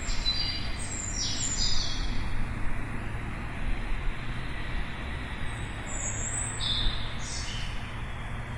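Small birds chirping in quick runs of short high notes, one cluster in the first two seconds and another about six seconds in, over a steady low hum of distant city traffic.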